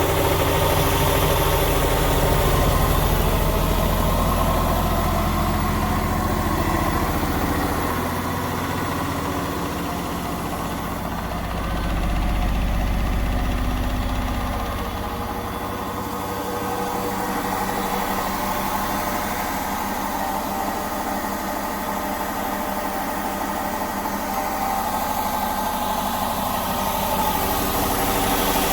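Indesit 1400-spin washing machine in its spin cycle: the motor and drum run with a steady low hum and a whine, the low hum swelling briefly about twelve seconds in as the speed shifts.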